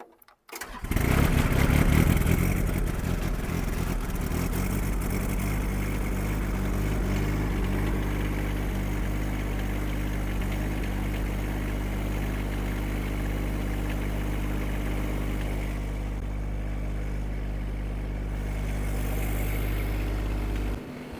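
Yanmar diesel engine of a Kymron XH20D mini excavator starting after a glow-plug preheat, having sat overnight. It catches about a second in and runs a little faster for a couple of seconds, then settles to a steady idle. The sound drops off abruptly just before the end.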